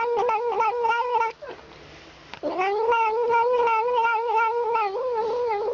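A cat yowling in long, wavering, drawn-out calls. The first breaks off about a second in, and after a short pause a second call rises in pitch and holds on.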